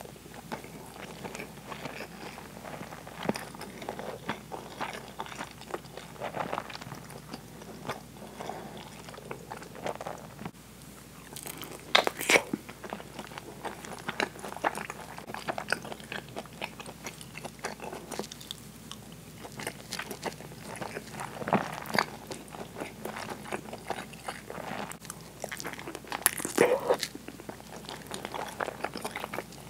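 Close-miked eating: a person chewing and biting soy-braised pork belly, thick deep-fried tofu and rice, with many small wet mouth clicks. A few louder, sharper bites stand out, the loudest about twelve seconds in, others about twenty-two and twenty-seven seconds in.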